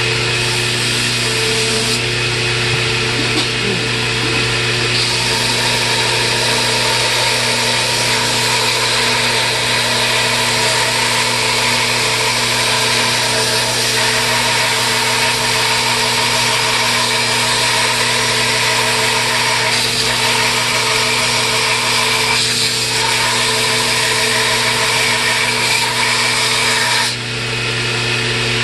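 A power tool running steadily as it trims down a hickory hammer handle, with a constant motor hum under the cutting noise.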